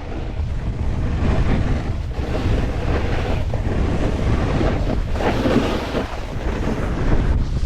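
Wind buffeting a GoPro microphone on a snowboarder riding downhill: a steady, rumbling rush of noise that swells louder about five seconds in.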